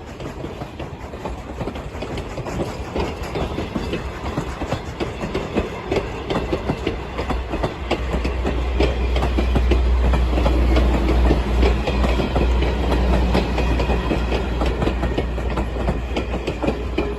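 A train rolling past, its wheels clicking rapidly over the rail joints, with a deep rumble that grows louder about halfway through and eases near the end.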